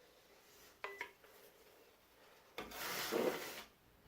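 Drywall knife scraping across joint compound and paper tape: a short faint scrape about a second in, then a longer scrape of about a second near the end.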